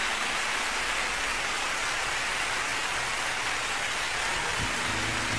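Steady falling rain, an even hiss with no breaks. Near the end a low, pitched tone comes in under it.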